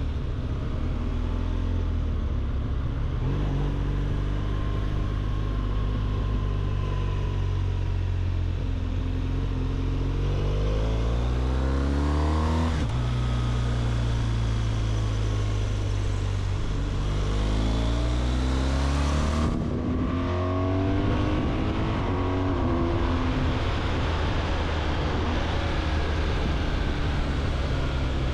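BMW R 1200 GS flat-twin engine under way, its pitch rising as it accelerates and dropping sharply at a gear change about halfway through, then climbing again later. Wind rushing over the microphone runs under it.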